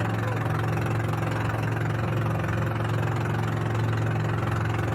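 Boat engine running steadily at an even speed, a continuous low hum.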